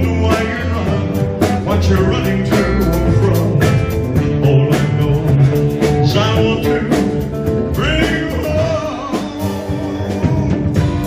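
Live band playing a country-rock ballad with guitar, bass, keyboards and drums.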